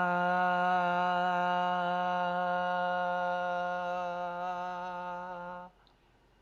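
A man chanting the mantra syllable "ma" as one long note held at a steady pitch, which stops about five and a half seconds in.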